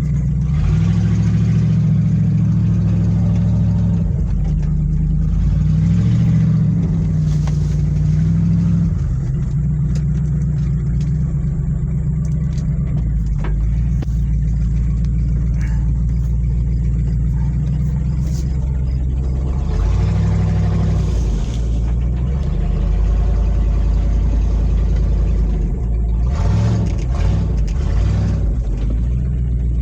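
1994 Ford one-ton truck's engine running loudly, revved up and let back down several times.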